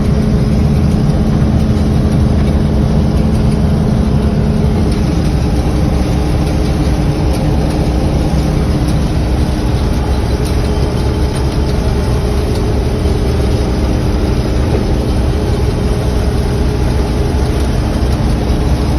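Heavy farm machinery engine running steadily, a loud continuous drone with a hum whose lowest tone fades out about five seconds in.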